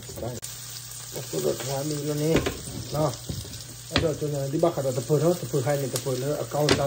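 Sliced onion sizzling in a hot nonstick pan, under a man's low voice and a few sharp knocks.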